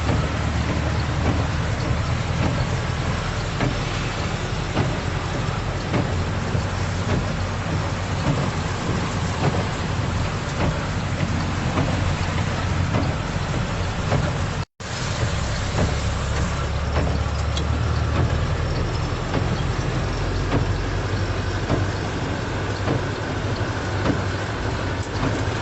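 Heavy downpour in strong wind: a dense, steady rain hiss with drops pattering close by over a low wind rumble on the microphone. The sound cuts out for an instant about fifteen seconds in.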